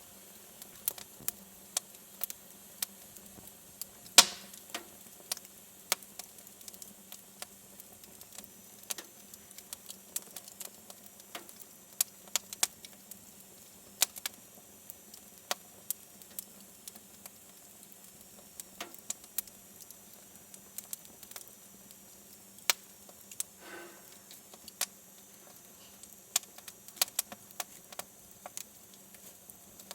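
Wood fire in a fireplace crackling: irregular sharp pops and snaps over a faint steady hiss, with one louder pop about four seconds in.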